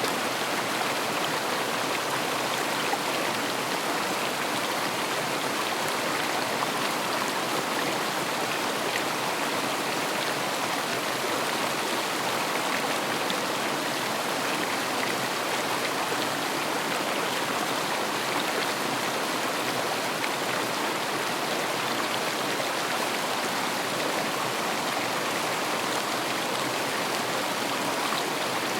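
River water running and splashing in a steady, even rush.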